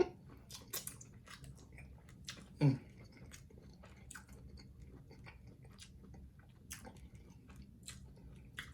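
Close-miked chewing of a person eating, with many small wet mouth clicks and smacks scattered throughout, and a brief voiced 'mm' about two and a half seconds in.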